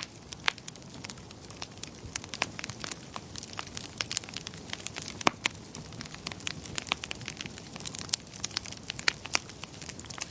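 Wood fire in a fireplace crackling, with many irregular sharp pops, a few louder ones, over a soft low rush of burning.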